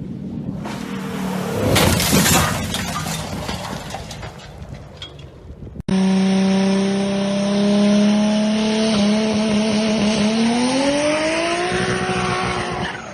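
Car noise: first a loud rushing, clattering burst peaking about two seconds in. Then, after an abrupt cut, an engine runs at a steady pitch that climbs as the car accelerates near the end.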